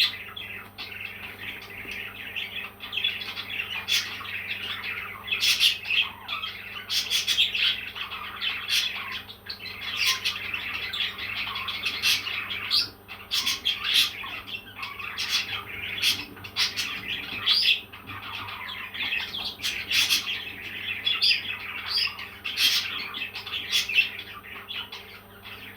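Parrots chattering continuously in a dense stream of short chirps and squawks.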